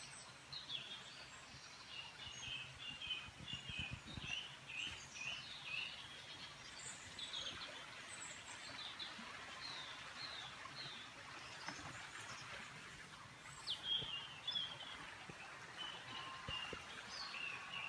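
Birdsong: short chirps and quick trills from small birds, over a faint steady hiss.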